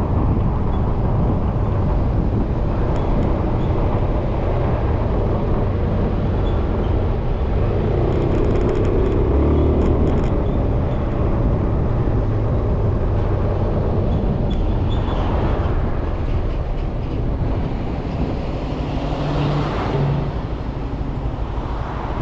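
Riding a Suzuki Burgman 400 scooter: steady engine, wind and road noise from the moving scooter, with two swells later on and a slight easing near the end.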